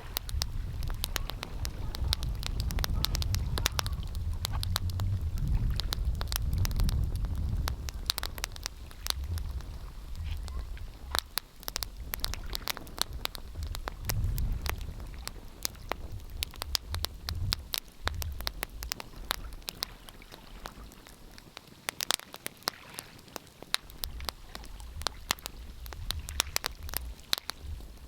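Fire crackling with many irregular sharp pops, over a low rumble that is heaviest in the first several seconds and swells again near the middle.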